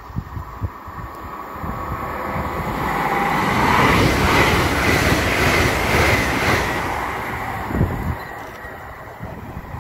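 TransPennine Express Class 802 Nova 1 train passing through at speed: the rumble and rush of wheels on rail build, are loudest about four to six seconds in, then fade as it runs away. There is a sharp knock near the end.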